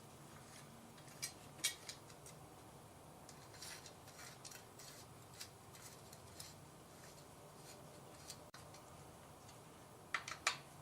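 Faint, scattered metallic clicks and ticks of a nut driver and small screws being run in by hand on a GM HEI distributor, with a quick cluster of sharper clicks near the end.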